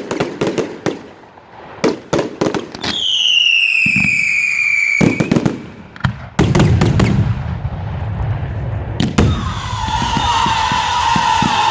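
Fireworks display: a quick string of bangs and crackles, then a whistling shell whose pitch falls over about two seconds, ending in a bang. Dense crackling salute reports and rumble follow, and near the end a lower, steadier whistle rises out of the crackle.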